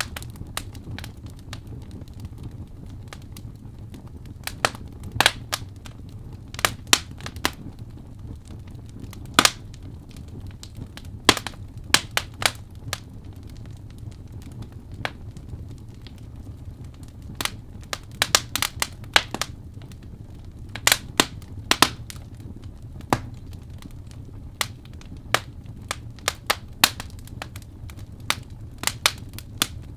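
Wood fire in a fireplace crackling, with sharp pops at irregular intervals over a low steady rumble.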